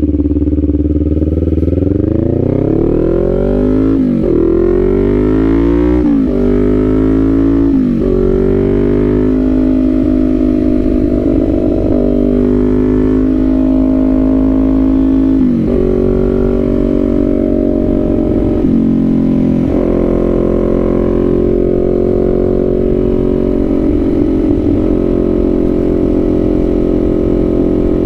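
Kawasaki Z400's parallel-twin engine pulling away and accelerating, its pitch rising and then dropping sharply at three quick upshifts in the first eight seconds. It then runs at a steadier pitch, with two more drops in pitch about midway.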